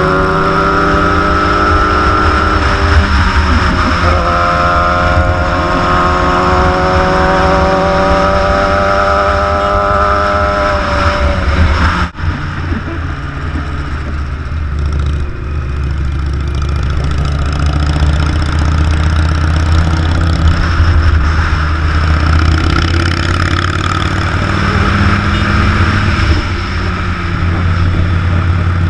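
Big motorcycle engine running on the road, its pitch slowly rising in two stretches of acceleration over the first twelve seconds, then a steady, lower drone with rushing noise after an abrupt break about twelve seconds in.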